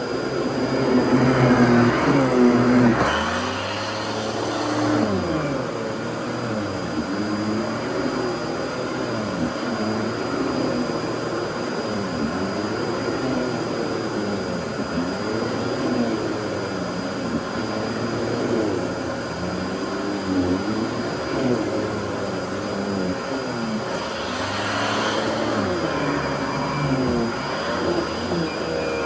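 Fantom Lightning vacuum cleaner running with a steady hum, its pitch rising and falling about every two seconds.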